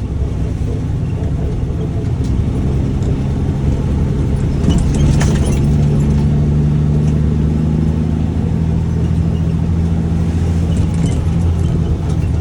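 Diesel dump truck engine running steadily while driving, heard from inside the cab as a low drone that grows louder over the first few seconds. A brief rattle comes about five seconds in.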